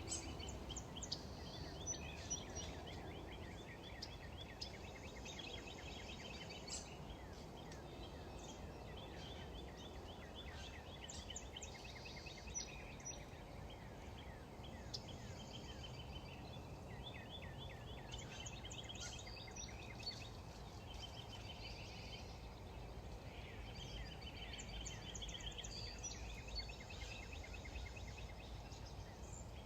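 Faint birds chirping and trilling over a steady low background hum.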